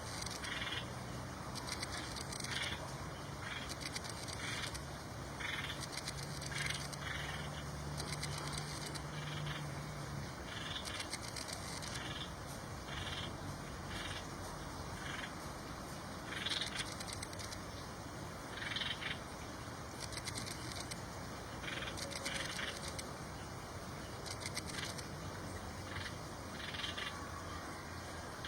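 Short animal calls repeating about once or twice a second over a steady background hiss. A low hum stops about ten seconds in.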